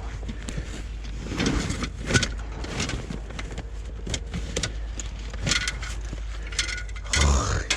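Scattered clicks, knocks and rattles of a small water pump and its hoses being handled and fitted together, with a louder clatter near the end.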